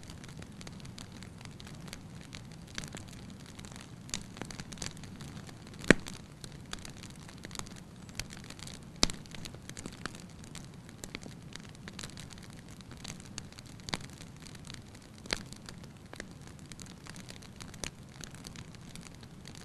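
Campfire crackling, with irregular sharp pops over a steady low background; the two loudest pops come about six and nine seconds in.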